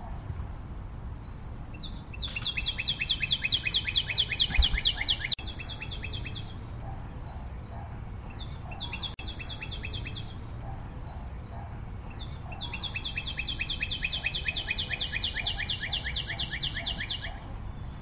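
A bird singing three rapid trills of evenly repeated high notes, about eight a second, the longest lasting several seconds and dropping slightly in pitch toward its end.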